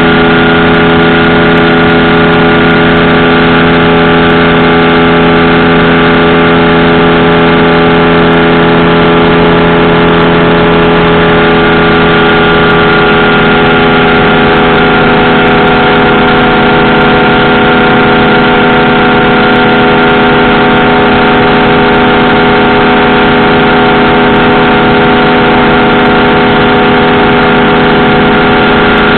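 Powered parachute engine and propeller running loud and steady at near-constant speed.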